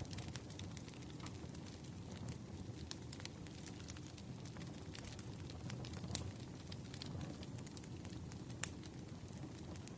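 Firewood burning, with a steady low rustle of flame and scattered crackles and pops; one pop stands out about eight and a half seconds in.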